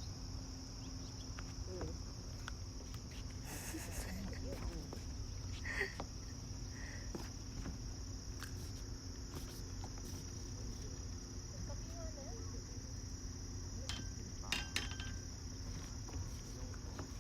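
Insects trilling in one steady, high, even tone over a low rumble, with a few faint clicks about two-thirds of the way in.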